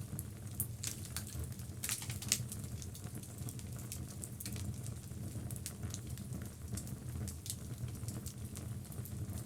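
Logs burning in a fireplace: a steady low rumble of flame with irregular sharp crackles and pops from the wood. A cluster of louder pops comes about two seconds in.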